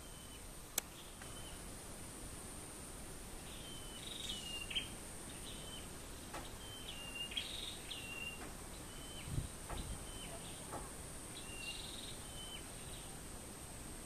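Songbird chirping repeatedly with short notes that step down in pitch, over a steady high-pitched insect drone. A sharp click sounds about a second in, and a dull low thump comes about two-thirds through.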